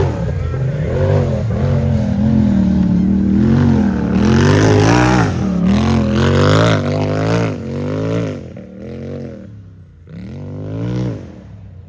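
Unlimited-class UTV engine revving hard, its pitch rising and falling again and again as the throttle is worked. It fades about eight seconds in, then comes back with one last rev before dropping away near the end.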